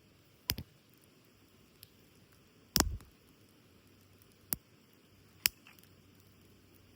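Four sharp, separate cracks from a small wood campfire over a faint steady background; the loudest, a short double crack, comes about three seconds in.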